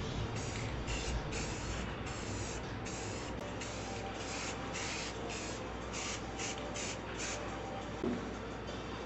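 Aerosol spray-paint can spraying in about a dozen short hissing bursts, stopping about seven seconds in. A light thump comes near the end.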